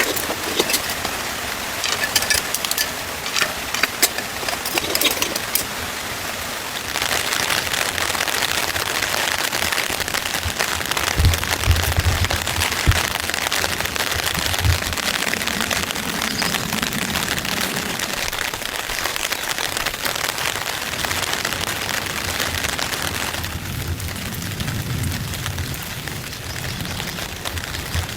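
Heavy rain falling on a tent roof, with sharp drop ticks in the first few seconds. About seven seconds in the rain grows denser and louder. A few low thuds come in the middle.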